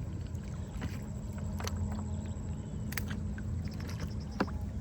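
Steady low drone of a small motor running, with three short sharp knocks over it.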